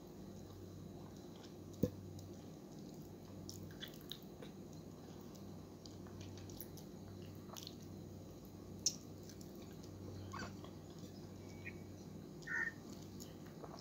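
Soft chewing and mouth sounds of eating ripe mango slices, with small wet clicks, over a steady low hum. A single sharp knock comes about two seconds in, and a short high tone sounds near the end.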